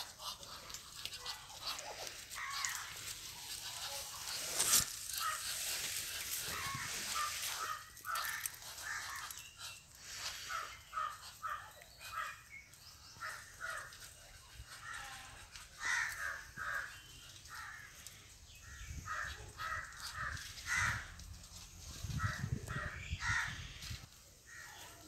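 Birds calling in a steady run of short, repeated calls. A single sharp click comes about five seconds in, and a low rumble near the end.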